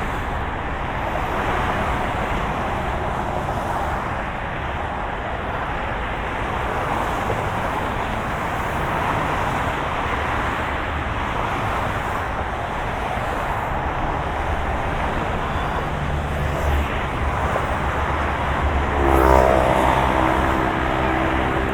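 A moving car's steady road and engine noise, an even rushing hum. About three-quarters of the way through, the engine note rises as the car speeds up, then holds at the higher pitch.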